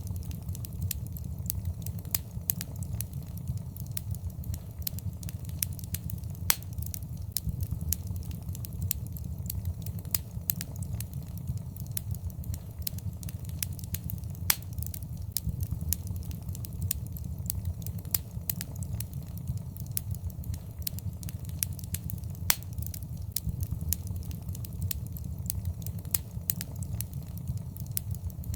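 Wood fire burning in a fireplace: a steady low rumble of flame with frequent, irregular sharp crackles and pops.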